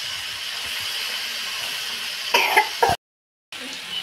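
Steady sizzling of bitter gourd pieces frying in masala in a kadai. A little over two seconds in, someone briefly clears their throat, then the sound cuts out to silence for about half a second before the sizzling resumes.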